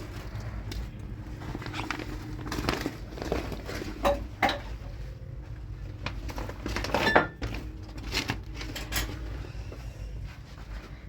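Dishes and utensils being handled: scattered clinks and knocks, the sharpest about four seconds in and again about seven seconds in, one with a short metallic ring.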